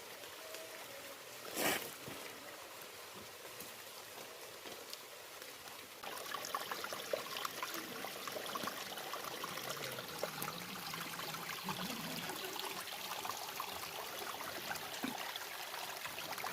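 Water running and trickling, with a short loud rush about a second and a half in. The trickling turns busier and louder about six seconds in.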